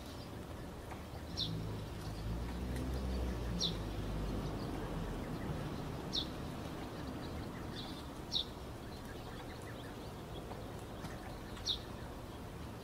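A bird chirping outdoors: one short, high, slightly falling call every two to three seconds, about five in all. Under it runs steady background noise, with a low rumble swelling for a few seconds near the start.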